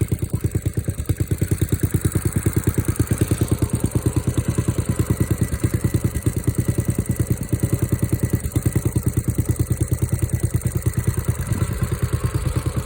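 Small gasoline engine idling after a cold start, with a steady, even chugging of about seven to eight beats a second.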